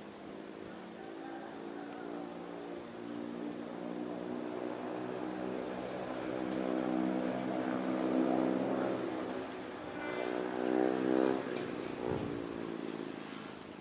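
Diesel passenger train running slowly, with a steady engine drone of evenly spaced tones that swells louder through the middle and peaks around eleven seconds in.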